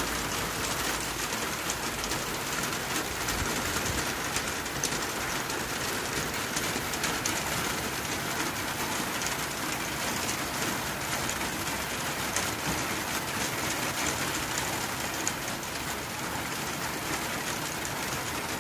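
Rain falling steadily on a tin roof: a dense patter of drop impacts over an even hiss.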